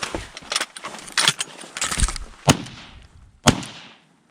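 Shotguns firing from the blind at an incoming duck: three loud, sharp shots about a second apart.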